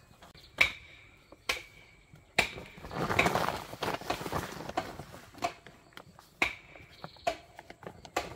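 Sharp knocks at uneven intervals, several leaving a brief high ringing tone, with a stretch of rustling in the middle.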